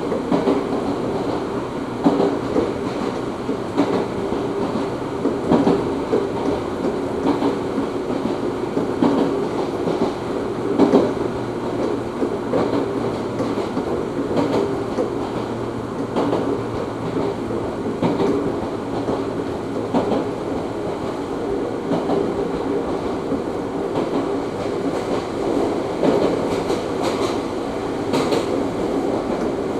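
Ohmi Railway train heard from inside the car while running along the line: a steady running rumble with a low hum, and wheels clicking over rail joints at irregular intervals.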